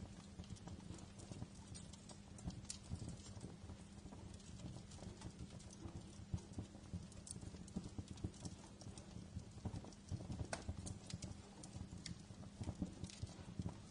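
Wood fire crackling in a fireplace: an irregular stream of small pops and snaps, a few sharper ones standing out, over the low rumble of the flames.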